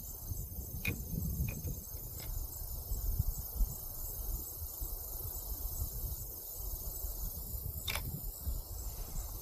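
Heavy wind rumbling and buffeting on the microphone, with insects trilling steadily in a high, pulsing tone and a few faint clicks.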